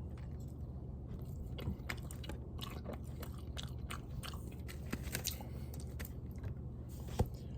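A person biting into and chewing a breaded buffalo chicken strip close to the microphone: many small, irregular clicks and smacks, with one sharper click near the end.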